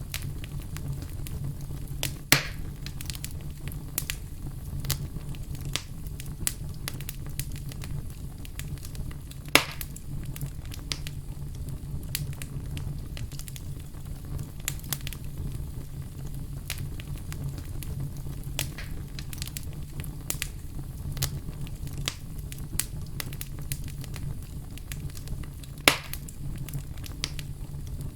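Wood fire crackling: a steady low rumble of flames with frequent small crackles and three louder pops.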